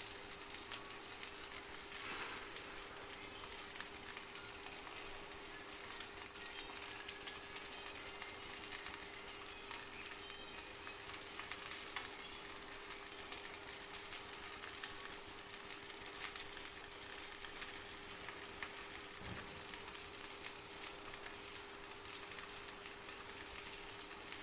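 Chicken kababs frying in shallow oil in a pan, a steady sizzle with fine crackles, under a faint steady hum.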